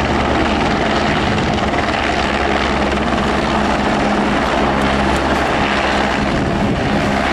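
Royal Australian Navy helicopters flying a close-formation display, their rotors and turbine engines giving a loud, steady noise.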